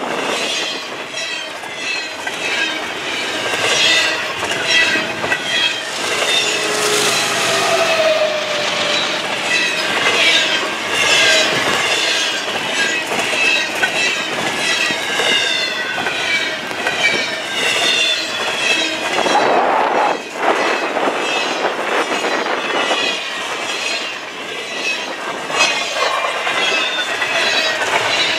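Double-stack intermodal container train passing close at speed: a continuous rush and clatter of wheels on rail, laced with high wheel squeals that waver and slide in pitch.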